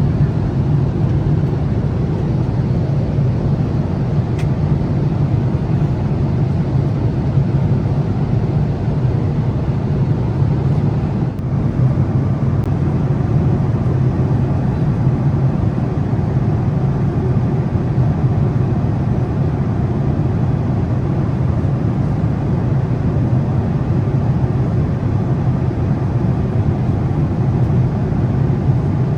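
Steady cabin noise of a Boeing 787-8 airliner in flight: a constant low rush of engine and airflow noise heard from inside the cabin.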